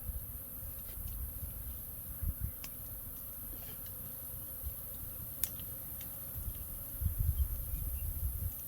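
A swarm of wild honeybees buzzing, agitated and pouring out of their hive in a hollow baobab tree as a man climbs inside. Under it a low rumble grows louder about seven seconds in, and a few sharp clicks stand out, the loudest about five and a half seconds in.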